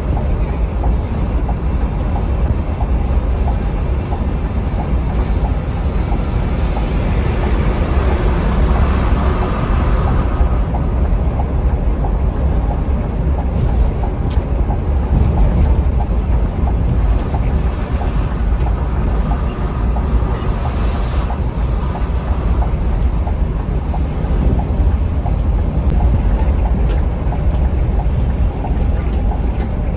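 Scania K360iB coach under way at speed: a steady engine and road rumble with wind noise.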